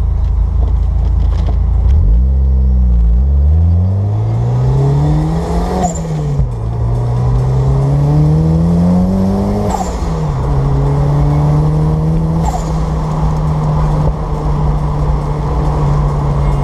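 A 1994 Toyota MR2 Turbo's engine, heard from inside the cabin, pulls away from a stop. Its pitch rises through the gears, dropping at each of three upshifts with a short chirp at each change, then holds steady at cruise.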